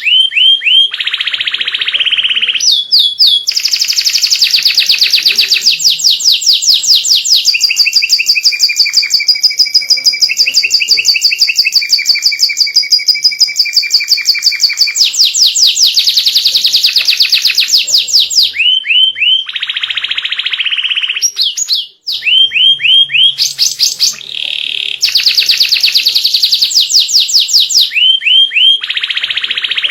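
Domestic canary singing a long, continuous song of fast trills and rolling phrases, with one short break about 22 seconds in. It is a master song meant to get young canaries to sing along.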